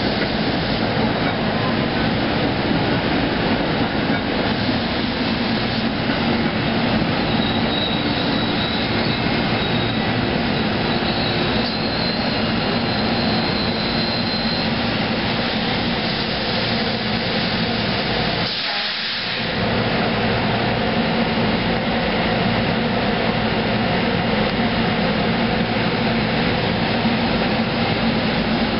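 Electric commuter train of GE-built cars rolling past while picking up speed, a steady loud rumble of wheels on rail, with a brief drop in the noise about nineteen seconds in.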